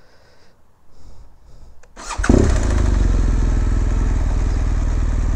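BMW R1200GS boxer-twin motorcycle engine starting about two seconds in: a brief crank, then it catches and settles into a steady idle.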